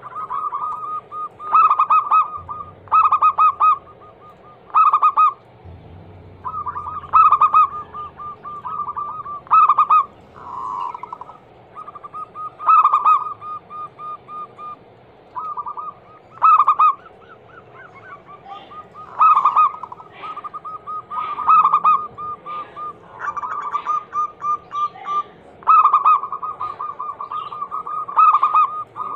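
Zebra dove (perkutut) cooing: a steady series of short, rapidly pulsed coo phrases every second or two, some drawn out into longer rolling trills. It is a lure call, described as a female calling for a male.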